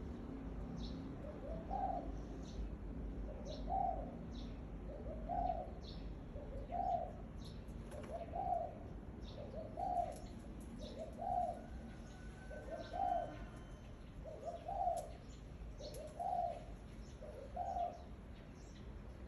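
A bird repeating one short call that rises and falls, about every one and a half seconds, with faint high chirps from smaller birds in between.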